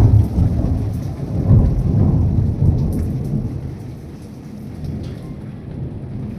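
Rolling thunder over heavy rain. The rumble swells again between about one and three seconds in, then dies away, leaving the steady hiss of the downpour.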